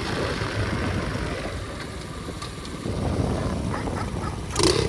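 Flywing pit bike engine running at low cruising speed, with a dog barking once near the end.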